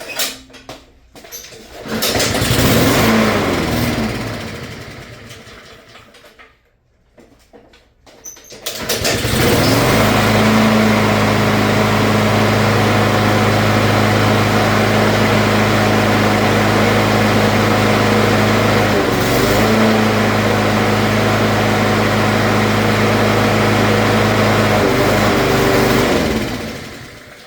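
Honda-powered Craftsman lawnmower's small single-cylinder engine being pull-started on choke. It catches about two seconds in, runs briefly and dies away. On a second pull, about eight seconds in, it starts and runs at a steady speed for about seventeen seconds, faltering once near the middle, before it stops near the end.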